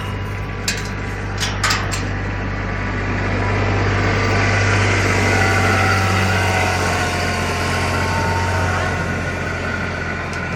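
A machine running steadily with a strong, constant low hum, with a few sharp knocks near the start.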